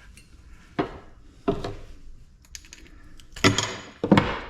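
Hand tools and small metal parts of a mini ice maker clicking and knocking during disassembly: four sharp knocks, the last two near the end the loudest.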